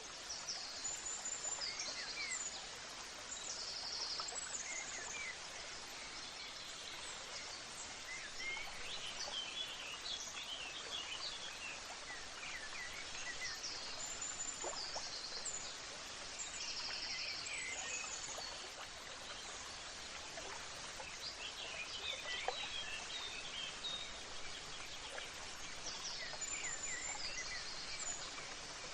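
Birds singing and chirping over a steady background hiss, with short trills and quick chirp runs; the same group of calls comes round again about every twelve seconds.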